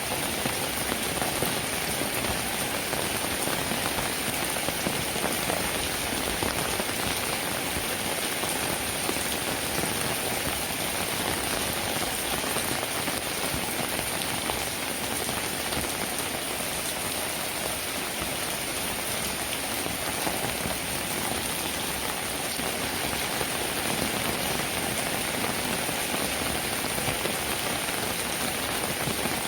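Steady rainfall, an even, dense patter of raindrops that neither builds nor eases.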